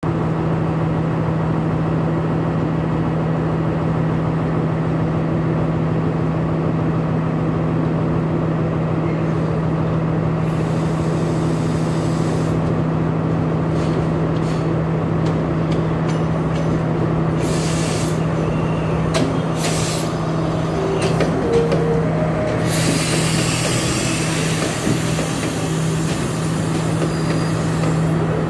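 Steady low drone of a standing diesel passenger train. About two-thirds through, another diesel train pulls in alongside on the next track, and its rumble and the clatter of its wheels over the rails build up.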